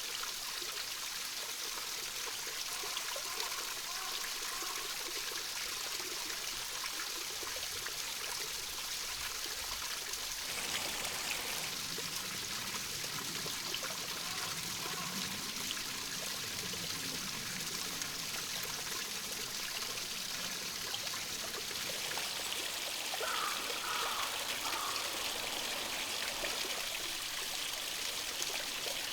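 A small stream trickling and running steadily, with a few short bird calls about three quarters of the way through.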